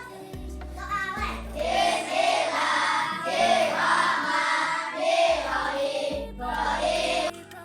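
A children's song: a group of young voices singing over backing music with a steady bass line.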